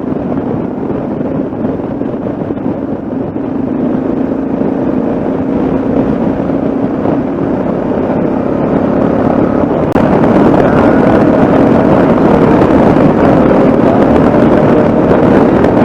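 Yamaha XT660Z Ténéré's single-cylinder engine running steadily under way, with wind rushing over the microphone. About ten seconds in, the sound steps up suddenly, louder and brighter.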